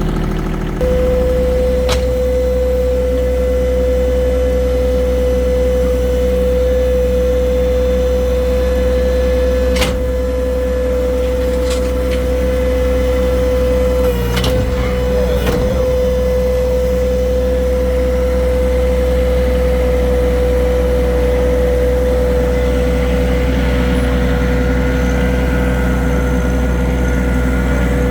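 Farm tractor engine running steadily, stepping up about a second in as a steady whine joins it and holds. A few sharp knocks or clanks come through, one about two seconds in and a couple around the middle.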